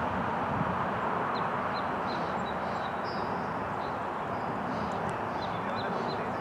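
Steady outdoor background rush, with a string of short, high bird chirps from about a second and a half in until near the end.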